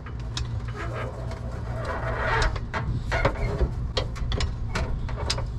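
Irregular light clicks and knocks of a fuel tank and floor jack being handled as the tank is lowered, over a steady low hum.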